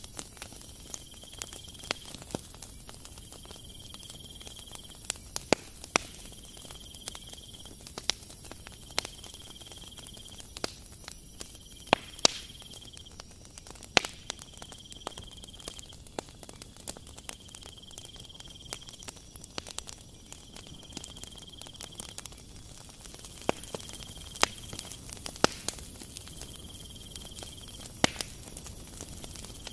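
Dry ingredients being sifted and spooned into a plastic mixing bowl: scattered sharp taps and clicks of the sieve and spoon against the bowl over a light patter of falling grains. A faint high chirp repeats for about a second roughly every two seconds.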